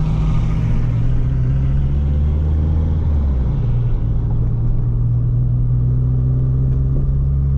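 1992 Toyota Paseo's small four-cylinder engine running steadily under way, a low drone whose pitch shifts slightly about three seconds in.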